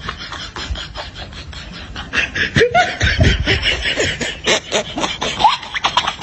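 Laughter, growing louder about two seconds in into a choppy run of short bursts with rising and falling pitch, over a steady hiss.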